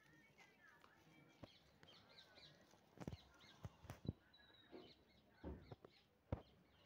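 Faint bird chirps in the background, with a few soft clicks and knocks about halfway through and near the end.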